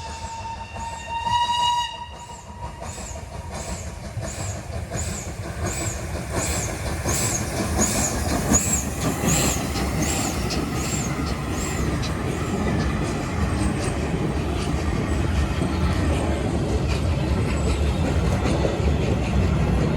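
Steam locomotive (FS Gr 640) sounding one short whistle blast about a second in, then steady, evenly spaced exhaust beats as it runs, over a rumble of the train that grows louder as it comes closer.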